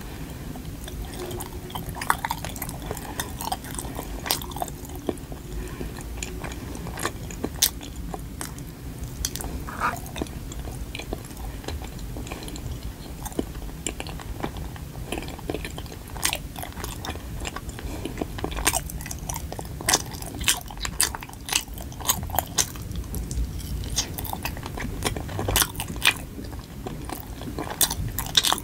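Close-up chewing of a soft Korean rice cake filled with red bean paste: sticky, wet mouth sounds with many short clicks, more frequent in the second half.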